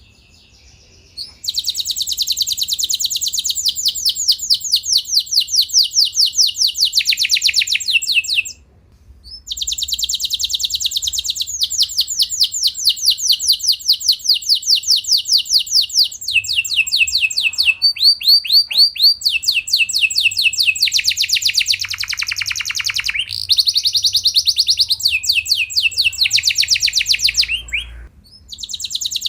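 Domestic canary singing long rolling trills: fast runs of rapidly repeated high notes strung into phrases several seconds long, broken by a few brief pauses.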